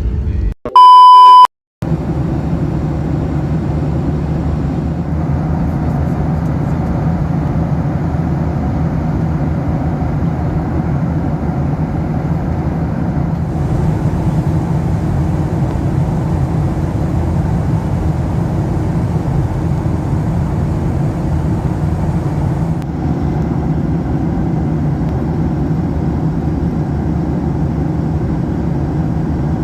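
Steady engine and airflow noise inside the cabin of a Boeing 737-800 airliner. About a second in, the noise cuts out briefly for one loud, single-pitched electronic beep.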